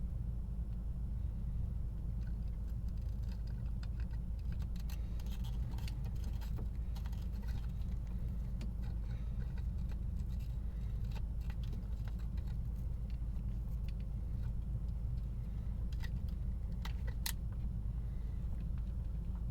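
Scattered small clicks and clinks, like small metal parts or tools being handled, in two spells, over a steady low hum.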